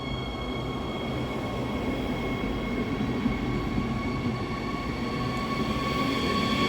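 Siemens Desiro HC electric multiple unit running through the station, its electric drive giving a steady high whine of several tones over the rumble of wheels on rail, growing louder toward the end.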